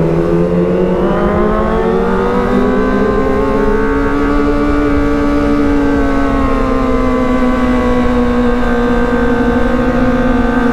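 Kawasaki ZX25R's 250 cc inline-four engine running under way, its note climbing steadily as it accelerates over the first few seconds, then holding at a steady cruise.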